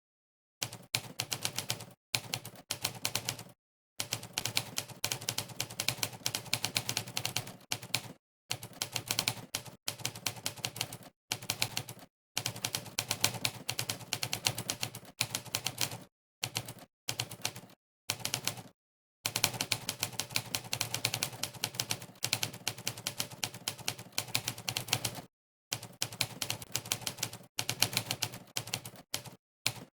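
Sampled typewriter key strikes from Monkeytype's typewriter sound setting, one click per keypress. They come in fast runs of many strikes a second, broken by short, dead-silent pauses.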